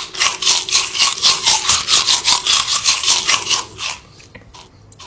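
Rapid rhythmic scraping, about five strokes a second, stopping about four seconds in.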